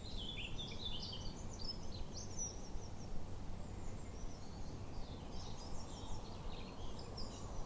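Small birds chirping and twittering in quick high notes, in two spells with a short lull near the middle, over a steady low outdoor background noise.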